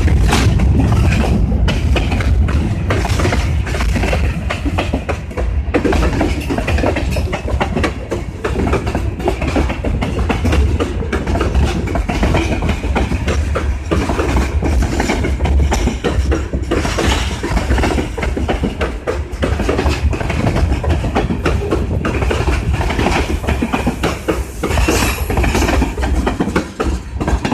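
Freight train cars rolling past, a steady low rumble with rapid clicking of steel wheels over the rail joints.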